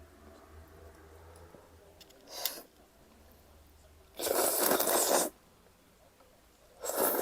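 Three noisy bursts of slurping cold buckwheat noodles: a short one, then a loud one lasting about a second, then another short one near the end.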